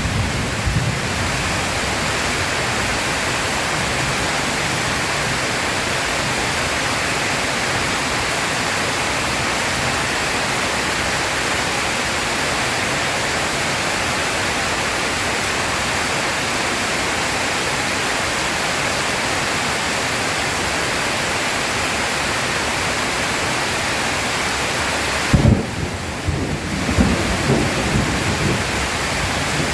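Heavy rain falling in a steady, dense hiss. About 25 seconds in, low rolling thunder rumbles in.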